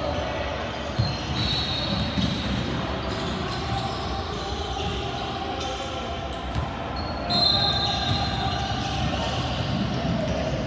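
Basketball game play in a gymnasium: a ball bouncing on the court with scattered thuds, over the steady din of the hall. Two short, high squeals come about a second in and again after seven seconds, typical of sneakers squeaking on the hardwood.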